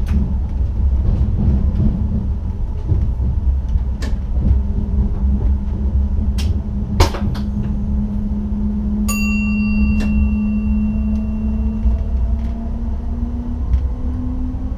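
NS ICM electric train running on the track, heard inside the driver's cab: a steady low rumble with a motor hum that rises slightly in pitch in the last few seconds as the train picks up speed. A few sharp clicks and knocks come through it, and a single short bell-like chime rings about nine seconds in.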